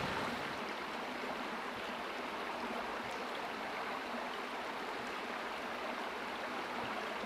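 A river flowing over rocks, a steady, even rush of water.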